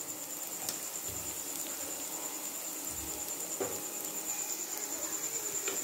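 Onion-tomato masala sizzling gently in oil in a clay pot, a steady hiss with a few faint clicks. A steady high cricket trill runs underneath.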